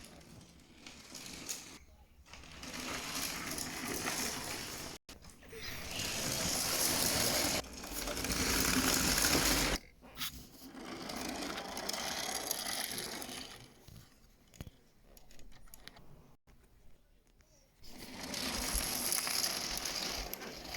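A train running: a steady mechanical clatter across the whole range, in several stretches that swell and fade. It breaks off abruptly twice.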